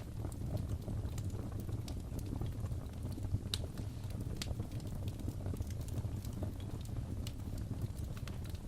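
Crackling fireplace: a steady low roar of burning wood with scattered sharp pops and crackles, one louder pop about three and a half seconds in.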